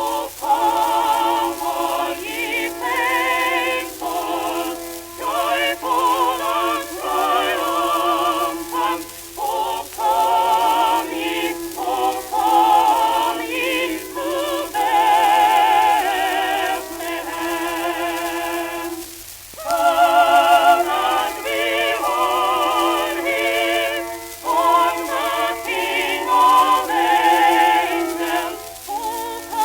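A Christmas-era vocal recording played from an early shellac phonograph record: a singer with a wide, wavering vibrato sings phrases over accompaniment. The sound is thin and boxy, with no deep bass or high treble, typical of an acoustic-era disc from 1900–1925.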